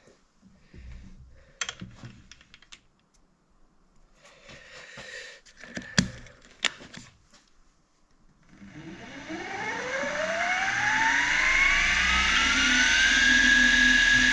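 Scattered clicks and knocks of hand work at the machine, with two sharp taps. About two-thirds of the way in, the milling machine's spindle motor starts up: its whine rises steadily in pitch as it spins up, then holds steady at speed.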